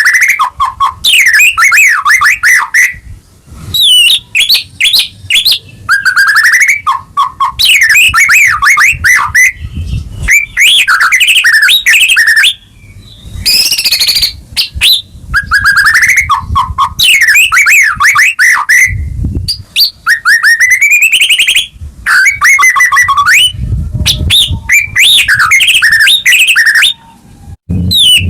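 White-rumped shama singing loudly in long, varied phrases of rapid whistles and trills, broken by short pauses. A few low rumbles lie underneath.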